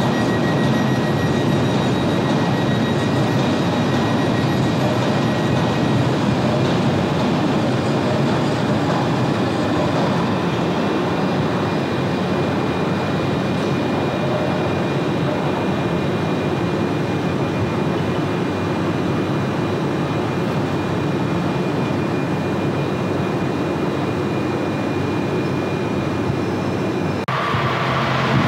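Train running at a station platform: a steady rumble with faint, steady high whining tones. About a second before the end it cuts abruptly to a different, brighter sound.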